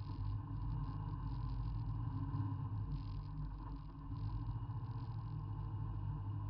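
Petrol Volkswagen engine of a folkrace car running steadily at low revs while the car rolls slowly, heard from inside the cabin.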